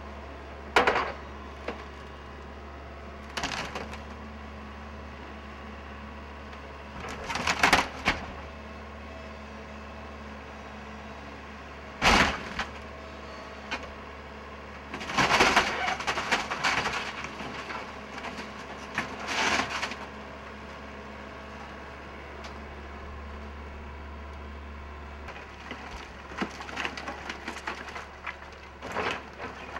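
Wooden building structure cracking and splintering as an excavator crushes it during demolition, in irregular loud bursts several seconds apart over a steady low engine hum.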